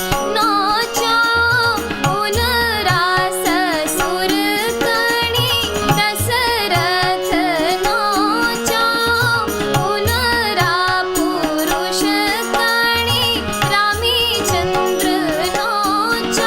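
A woman singing a Kumauni wedding song (mangal geet) in an ornamented, gliding melody. She is accompanied by a steady drone and a hand drum keeping a regular beat.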